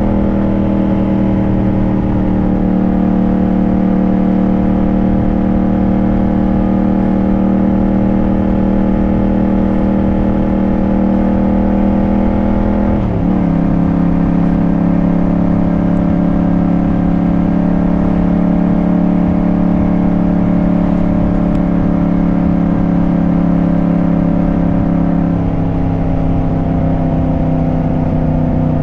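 Motorcycle engine running at a steady cruise on the move, with wind rumble on the microphone. The engine note steps down in pitch about halfway through and again near the end, as with upshifts.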